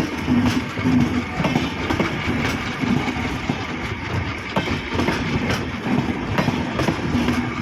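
Express passenger train running on the rails, its wheels clacking over rail joints in a steady run of clicks above a low drone.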